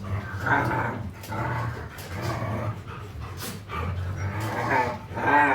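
Several dogs growling and grumbling in a series of short vocal outbursts, the loudest near the end, over a steady low hum.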